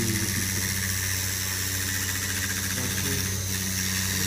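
Robot-mounted milling spindle running steadily through a cut, a continuous machine hum over a hiss of cutting noise.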